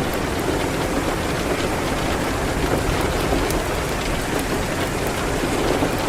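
Steady rain falling on a window, a dense even hiss with a low rumble underneath, and a few sparse sharp clicks.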